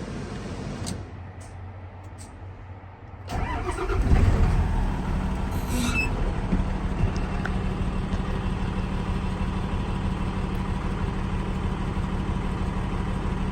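Hino 268 box truck's inline-six diesel engine started: about three seconds in the starter cranks briefly and the engine catches, then settles into a steady idle.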